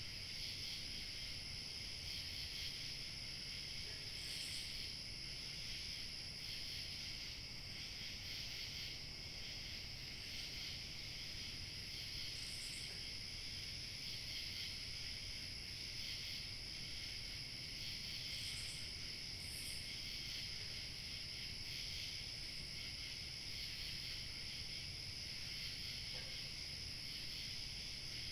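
Steady, continuous chorus of crickets chirping, with a few brief higher chirps scattered through it over a faint low rumble.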